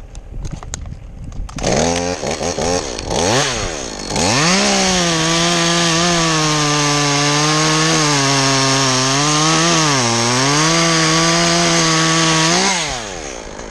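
Two-stroke chainsaw revved in a few short blips, then held at high revs for about eight seconds while cutting wood. The pitch dips briefly twice as the saw loads in the cut, then falls away near the end as the throttle is released.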